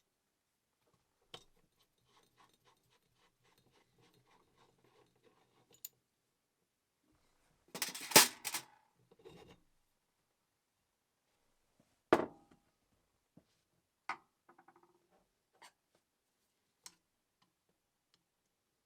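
Handling noises during work on a sewing machine: scattered clicks and light scraping, a louder rattling scrape about eight seconds in and a sharp knock about twelve seconds in.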